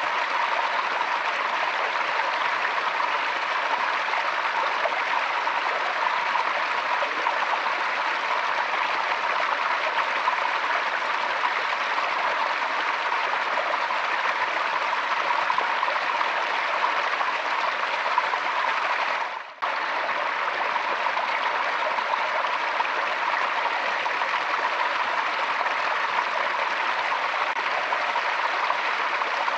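Forest stream flowing steadily, a continuous rushing and babbling of water. The sound drops out for a split second about two-thirds of the way through.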